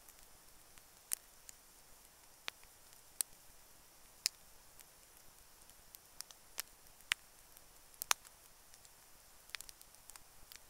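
Campfire crackling: sparse, irregular sharp snaps and pops of burning wood over a faint steady hiss.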